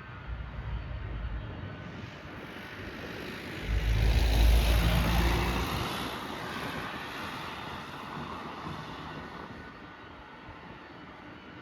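Jet airliner passing close by, its engine noise swelling to a loud peak about four seconds in with a deep rumble, then slowly fading away.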